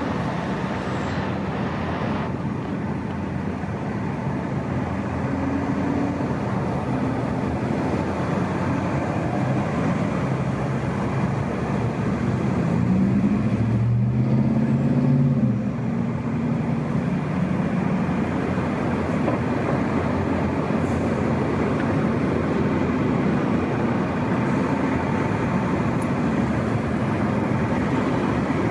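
Fire engine's diesel engine running as the pumper pulls out, with traffic noise around it. It grows louder for a few seconds about halfway through, then drops back suddenly.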